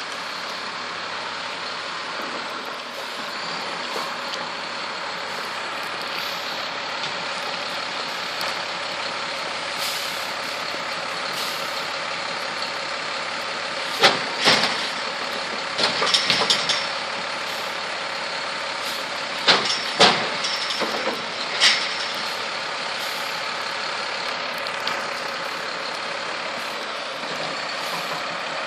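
Garbage truck running steadily, with a cluster of sharp clanks and bangs about halfway through.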